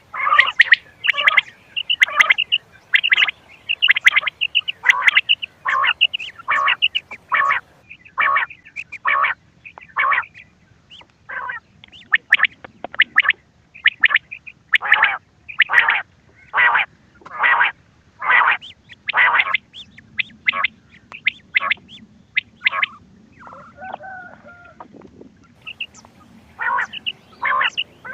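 Quail calls played as a hunting lure: short, sharp calls repeated in quick succession, roughly one or two a second. A brief, more drawn-out call with a steady pitch breaks in about two thirds of the way through.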